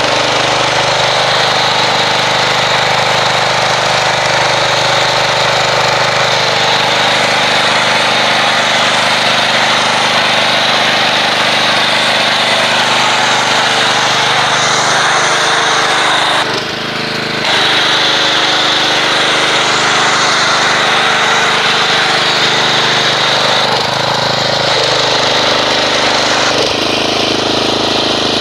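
Pressure washer running steadily, driving an MTM foam cannon that sprays soap foam with a loud hiss. The spray stops briefly about 17 seconds in while the motor keeps running.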